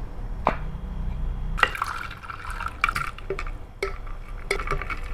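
Ice cubes clinking in a glass of fruit syrup, with liquid sounds and about six separate sharp clinks spread out roughly a second apart.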